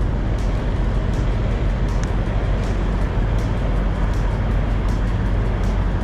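Steady low rumble of idling trucks and passing traffic, with footsteps on a dirt lot about twice a second.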